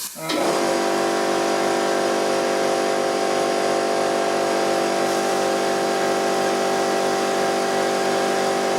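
Air compressor motor starting up and running steadily, a constant pitched hum with an airy hiss, while it feeds an HVLP spray gun.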